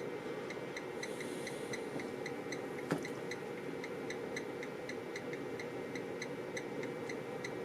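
Amplifier dyno test bench running during a high-current 1-ohm power test: a steady hum with light, regular ticking about three times a second, and one sharp click about three seconds in.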